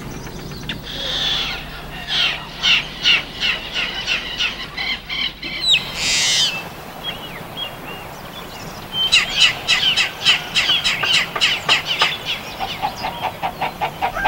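Birds calling in quick runs of repeated high chirps: one run in the first half and another in the second, with a short hiss about six seconds in.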